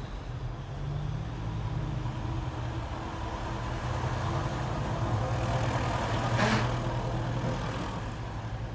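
An old tractor's engine running steadily at low revs, with a short sharp burst of noise about six and a half seconds in.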